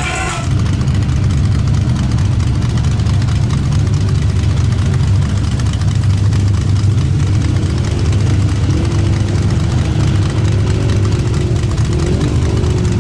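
A vehicle engine idling close by, a steady low running sound that holds even throughout.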